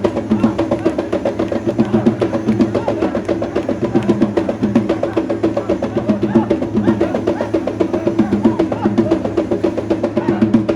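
Music with fast, steady drumming.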